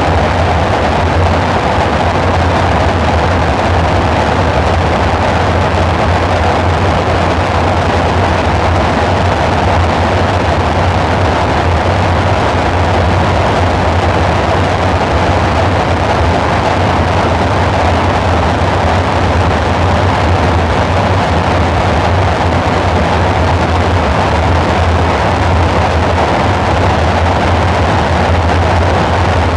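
Dark ambient synthesizer drone: a steady low hum under a dense, noisy hiss, unchanging, with no beat or melody.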